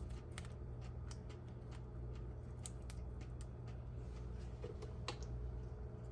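Faint, scattered light clicks and crackles of hands working with food and kitchen things, over a steady low hum.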